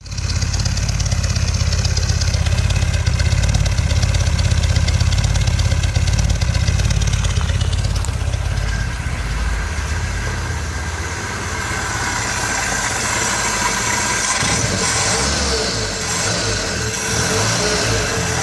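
Mercedes W110's M121 four-cylinder petrol engine running through a new exhaust, idling with a steady low note. About fourteen seconds in the sound turns uneven and pulsing as the throttle linkage is worked and the engine speed rises and falls.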